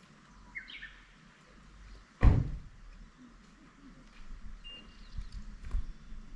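A single loud thump about two seconds in, with a few faint short chirps before and after it.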